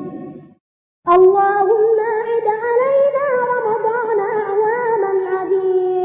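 A single voice chanting a supplication in a long melodic line, holding notes and turning them with ornaments. The sound cuts out completely for about half a second near the start, then the chant resumes.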